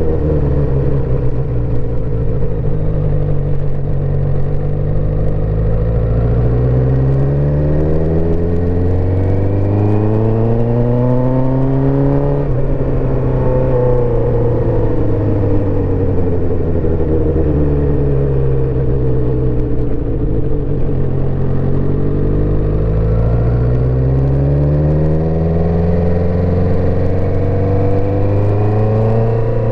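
1984 Suzuki GSX-R400's inline-four engine running under way. The revs climb steadily for several seconds, ease off about twelve seconds in and fall away slowly, then climb again near the end.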